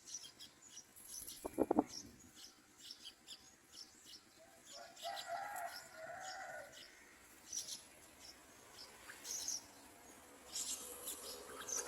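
Yellow-vented bulbul nestlings cheeping to beg for food: many short, high chirps in quick succession. A lower call comes in the middle, and there is a brief knock near the start.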